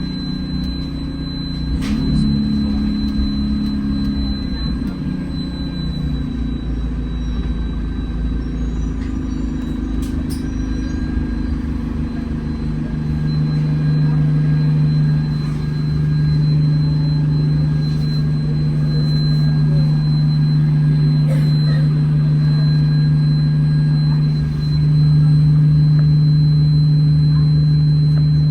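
Alexander Dennis Enviro200 bus engine running, heard from inside the bus: its drone shifts in pitch at first, then settles into a steady hum about halfway through and gets a little louder near the end. A thin, steady high whine runs throughout, the 'weird' vacuum-cleaner-like noise that the uploader thinks comes from the air-conditioning cooling fan.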